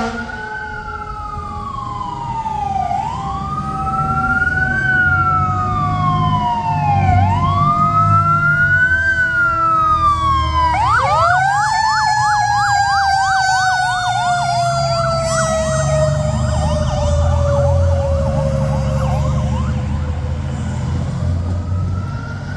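Fire apparatus sirens on an emergency response: a slow wail rising and falling about every four seconds, switching about halfway through to a fast yelp. Underneath, a second siren tone slowly falls in pitch, with the rumble of the trucks' engines.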